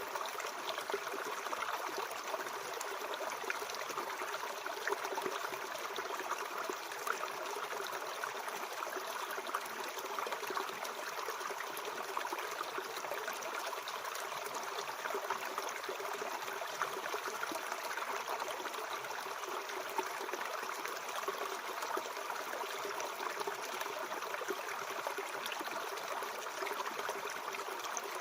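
Mountain stream flowing steadily over rocks, a continuous babble of water with small trickles and gurgles.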